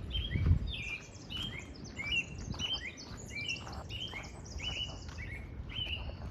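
Several small birds chirping together in a busy, overlapping chatter of short quick notes. Footsteps along the path underneath, with one heavier step about half a second in.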